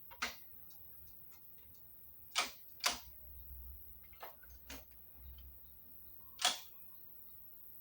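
Sharp clicks and knocks of a compound miter saw being handled and adjusted during setup: about half a dozen separate strikes, the loudest a pair about two and a half and three seconds in and one about six and a half seconds in.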